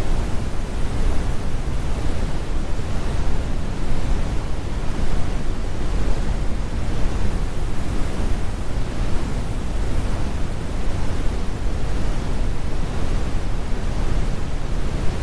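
Steady, computer-generated brown noise: a constant deep rumble without tones or events, with most of its energy in the lowest frequencies and the highs rolled off.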